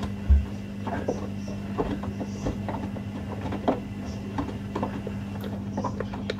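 Washing machine running a wash: a steady motor hum under irregular knocks and clicks of laundry tumbling in the drum, with a low thump just after the start.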